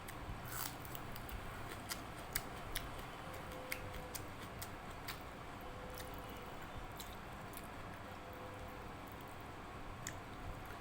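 Close-up eating sounds of a person eating dal and rice: chewing with irregular sharp, wet clicks, over a faint steady hum.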